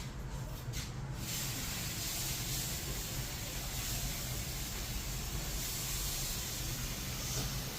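A steady airy hiss that comes in about a second in and holds, over a low steady hum.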